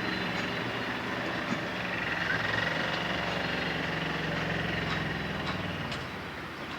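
A motor or engine running steadily with a low hum, easing off about six seconds in, with a few faint clicks over it.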